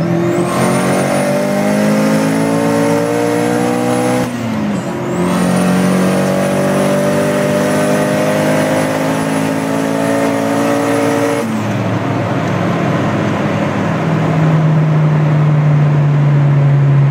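Volvo 740 16-valve turbo four-cylinder under full-throttle acceleration, heard from inside the cabin. The engine pitch climbs steadily, drops at an upshift about four seconds in, climbs again, and drops at a second upshift about eleven seconds in, then rises slowly in the higher gear. A high whine rises and holds during each pull and cuts out at each shift.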